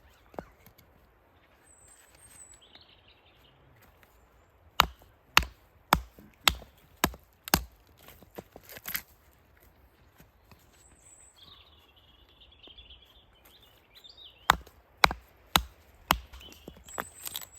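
Two runs of sharp, evenly paced knocks, about two a second, typical of wood being chopped with a hatchet or axe. Brief bird chirps and warbling calls come between the runs.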